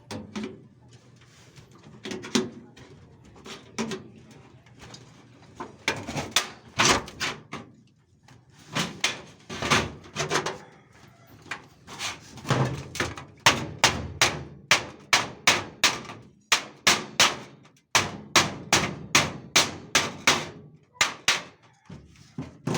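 Hammer blows: sharp strikes, scattered and irregular at first, then a steady run of about two to three a second through the second half.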